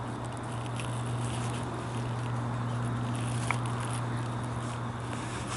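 Light rain pattering, with scattered small ticks over a steady low hum.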